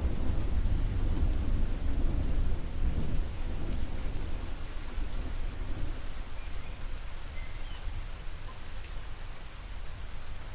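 Steady rainfall with a deep rumble of thunder that is loudest in the first few seconds and then dies down, leaving the rain's even hiss.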